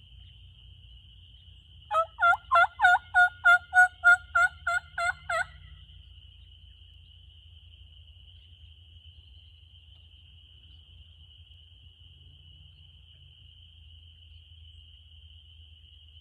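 A run of about a dozen turkey yelps, loud and evenly spaced at roughly three a second, starting about two seconds in and fading slightly over the last few notes. A faint, steady, high insect buzz continues underneath.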